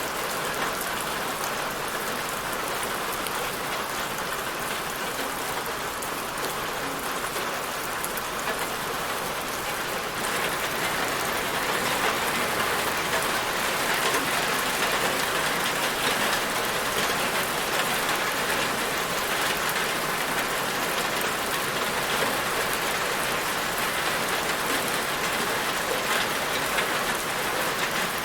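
Steady rain falling, a dense even hiss of drops on a surface with fine scattered patter; it grows slightly louder about a third of the way through.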